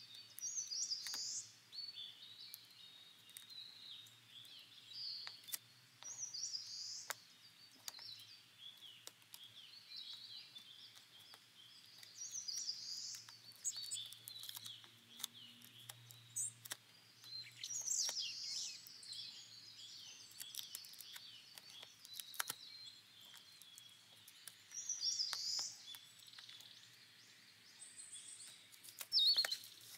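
Birds chirping in short bursts of high, quick calls every few seconds, with small clicks and rustles of paper and tape being handled in between.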